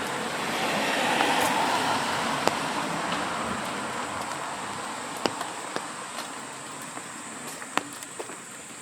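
A car passing on a rain-wet street: its tyre hiss swells over the first second or two, then slowly fades. A few sharp ticks are scattered through it.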